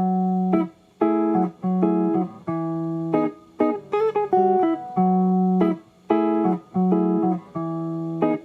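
Instrumental break in a live band song: guitar chords played in a choppy stop-start rhythm, each chord held for about half a second to a second and then cut off sharply, with a brief bending lead figure about four seconds in.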